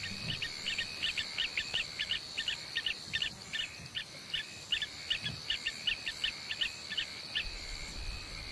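A bird calling in quick repeated chirps, about four a second, over a steady high insect buzz. The chirping stops about seven seconds in.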